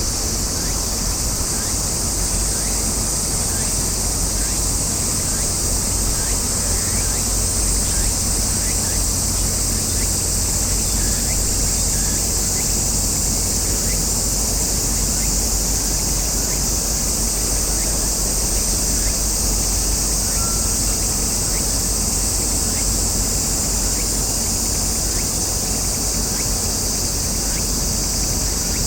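Steady, high-pitched chorus of summer cicadas, unbroken throughout, over a low steady rumble.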